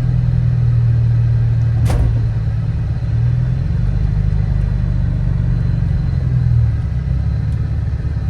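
2013 Dodge Charger R/T's 5.7-litre HEMI V8 running while driving, a steady low drone that eases off slightly about three seconds in and again near the end. A single sharp click sounds about two seconds in.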